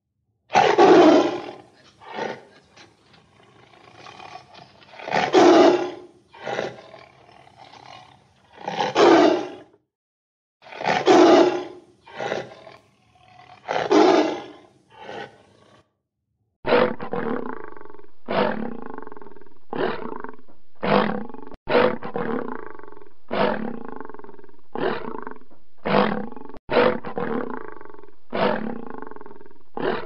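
White tiger roaring, loud calls coming every few seconds with quieter ones between. About halfway through a different big-cat recording takes over: a steady series of shorter calls, about one every second and a half.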